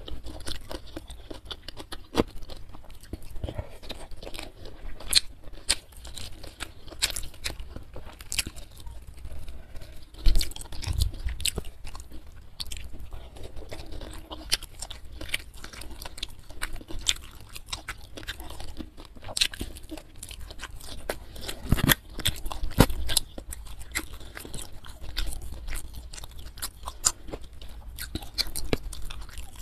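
A person chewing and crunching mouthfuls of fried carp and side dishes eaten by hand, in many irregular sharp crunches. The loudest come about a third of the way through and again about three quarters through.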